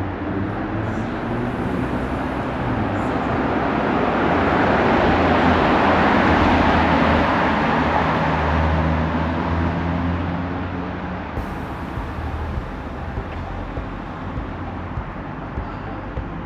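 A motor vehicle driving past: its engine and tyre noise build up, peak about six to eight seconds in, then fade away.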